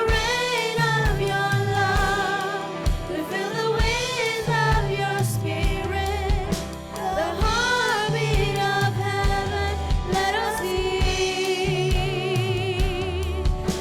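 Live worship band and singers performing a slow gospel-style worship song: voices sing held, wavering melody lines over a stepping bass and a regular drumbeat.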